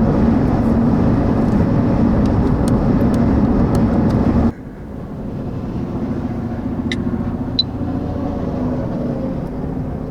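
Loud rushing wind noise over a vehicle's steady running hum during an extreme wind and dust storm. About four and a half seconds in, the rushing cuts off abruptly, leaving a quieter steady vehicle hum with a couple of faint ticks.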